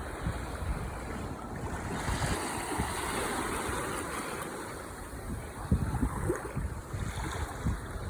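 Ocean waves surging and washing ashore, a continuous hiss that swells and eases. Wind gusts rumble on the microphone, strongest in the second half.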